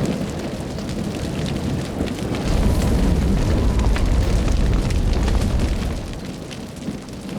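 Wildfire burning through a dry lodgepole pine forest: dense crackling over a deep rumble that swells about two and a half seconds in and eases off near the end.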